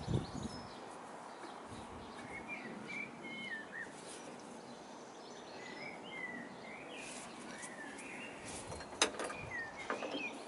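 Small birds chirping in short, wavering calls over a low, steady background noise, with one sharp click about nine seconds in.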